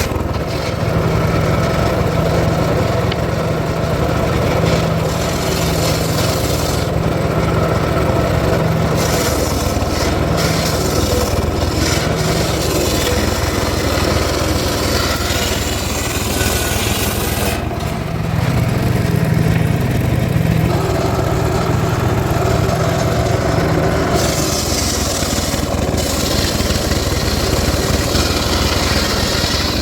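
Circular saw running and cutting teak wood: a steady, loud mechanical hum whose pitch shifts now and then.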